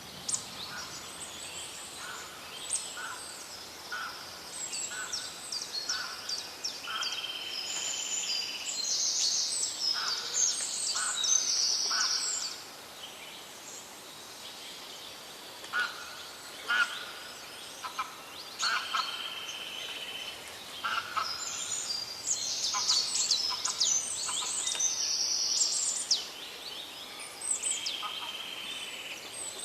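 Birds chirping and calling in short repeated notes and quick high trills, with a brief lull about halfway through.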